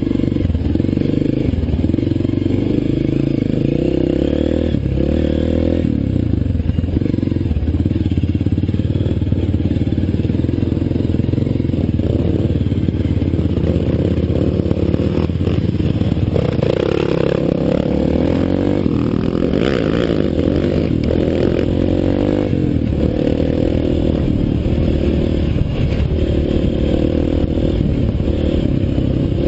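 Dirt bike engine running loudly and continuously while being ridden, its pitch shifting up and down with the throttle, with some clattering along the way.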